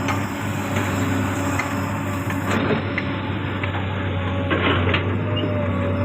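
Komatsu PC200 hydraulic excavator at work: its diesel engine runs steadily, with scattered metallic knocks and clanks. A thin steady whine comes in about four and a half seconds in.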